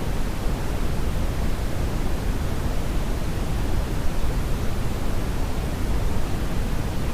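Steady brown (Brownian) noise: an even rushing hiss, deep and heavy in the bass and fading toward the treble, with no changes or events.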